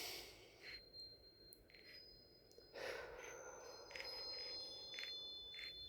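Faint wind chimes: several high ringing tones that start one after another and overlap, over a soft hiss that comes in about three seconds in.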